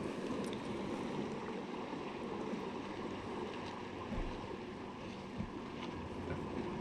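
Steady rush of river water with wind on the microphone, a few faint ticks, and two brief low thumps about four and five and a half seconds in.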